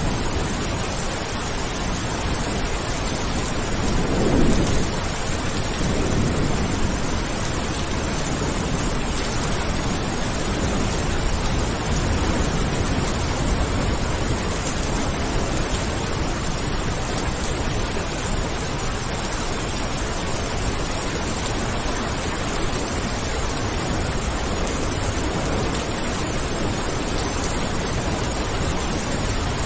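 Steady heavy rain hissing, with a low roll of thunder swelling about four seconds in and rumbling on for a few seconds.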